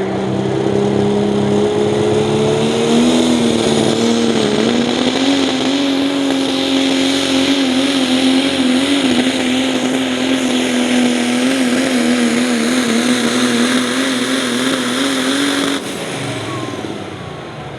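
Super stock diesel pulling truck, a Dodge Ram, making a full-throttle pull down the track. The engine note climbs over the first few seconds, holds steady at high revs for most of the pass, and drops off abruptly about sixteen seconds in as the throttle comes off.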